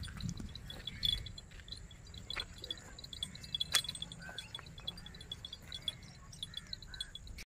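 Crickets chirping in rapid short pulses, with faint scattered clicks and rustles.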